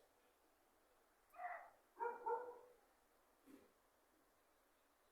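Faint barking calls of an animal the recordist cannot identify: a single bark about a second and a half in, then two quick barks about half a second later.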